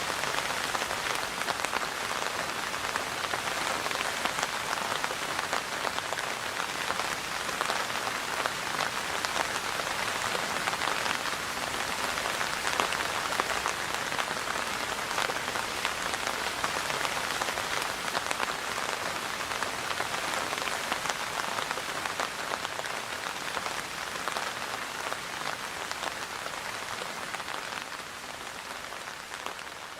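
Steady rain falling, a dense patter of drops, fading out over the last couple of seconds.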